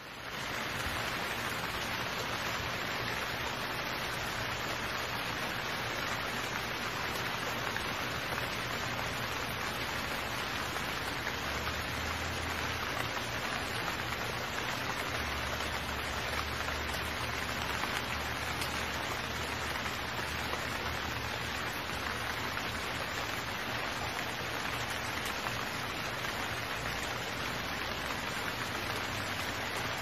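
Steady rain falling, an even hiss that fades in over the first second and then holds unchanged.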